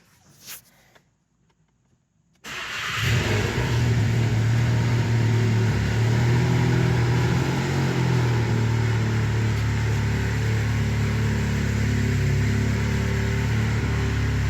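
First start of a 2017 VW Golf R's replacement 2.0 TSI turbo engine with an HPA FR450 turbocharger, just after an ECU reflash. After a faint click the engine catches about two and a half seconds in, flares briefly, then settles into a steady idle.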